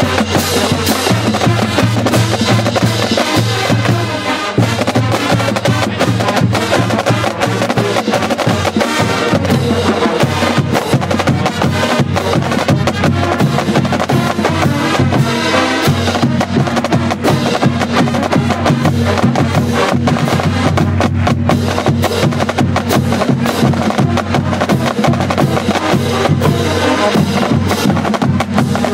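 Marching band playing: sustained low brass notes that shift every few seconds over a driving drumline of snare and bass drums.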